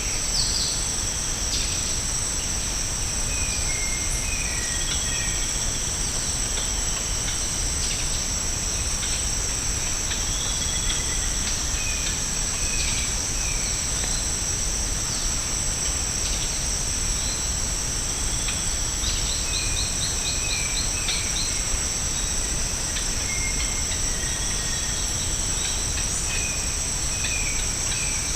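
Steady high-pitched chorus of tropical insects, with scattered short bird chirps and a quick run of about seven notes around twenty seconds in, over a low steady rumble.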